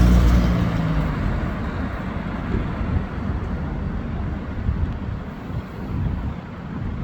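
A motor vehicle passing close by, its engine hum loudest at the start and fading within the first second or so, then a steady low rumble of road traffic.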